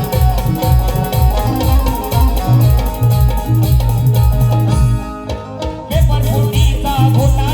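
Instrumental folk music from a Marathi kalgi-tura troupe: a fast, steady drum beat under a sustained melody line. The higher instruments drop out briefly about five seconds in while the drum carries on.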